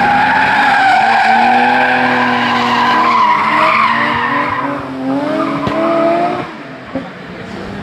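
Car engine revving hard at high rpm as the car climbs past on a hillclimb course, its pitch rising and stepping through gear changes. It fades sharply about six and a half seconds in.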